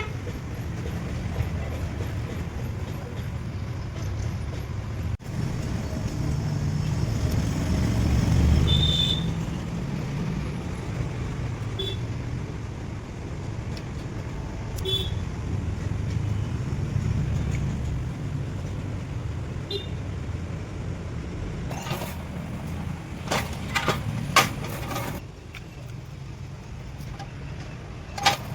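A car engine running with a steady low rumble that swells about eight seconds in, then several sharp clicks or knocks near the end.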